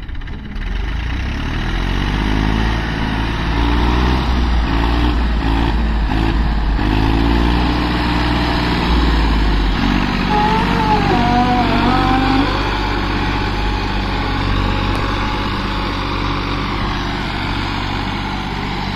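TAFE tractor diesel engines running loud and steady under load, their revs wavering. A wavering higher-pitched tone sounds over them about halfway through.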